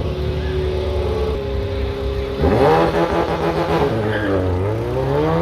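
A car engine running steadily, then revving hard as the car accelerates away about halfway through: the pitch climbs, drops briefly as if through a gear change, and climbs again.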